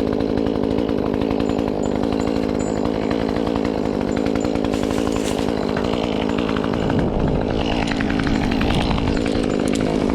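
Echo CS-2511T top-handle chainsaw's small two-stroke engine running steadily while it warms up.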